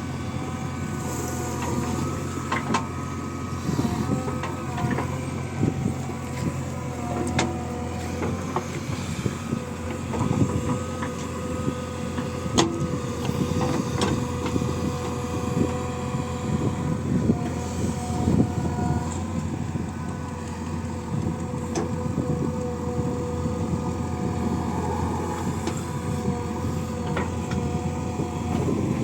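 Heavy diesel machinery engine running steadily, with scattered sharp knocks and clanks.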